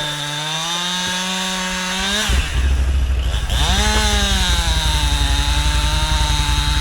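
Two-stroke chainsaw revved to full throttle and held. About two seconds in it drops off briefly, then revs up and holds again, with a loud low throbbing under it from that point on.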